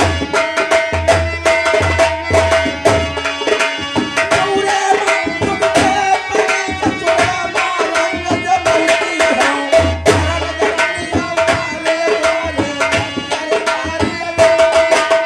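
Indian folk-theatre accompaniment: fast, dense hand-drum playing under a held melodic line, with deep drum booms in stretches near the start, about ten seconds in, and near the end.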